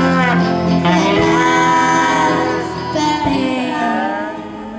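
Live band performing with a female lead singer holding sung notes over guitar and other instruments, echoing in a hall; the music softens near the end.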